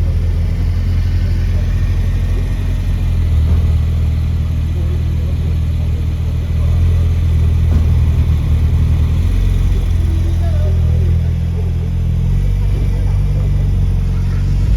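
Car engine running at a steady, deep idle, its pitch shifting slightly a few times.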